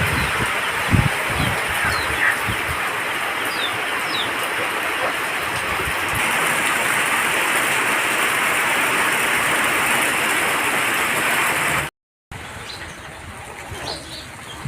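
Heavy rain falling steadily as an even hiss, with a few faint bird chirps over it. Near the end it cuts out abruptly and comes back quieter.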